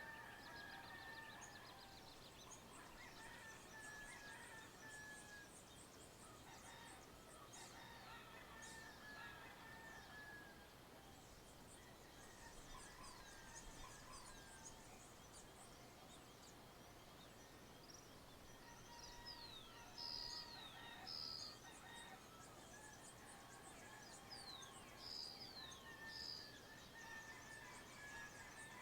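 Faint countryside dawn birdsong: many short, quick, high chirps, with a rooster crowing in the distance now and then.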